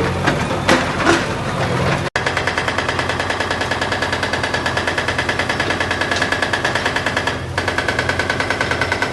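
Demolition machinery: a heavy engine running with a few sharp clanks. After a sudden cut about two seconds in, it gives way to a rapid, even hammering that carries on.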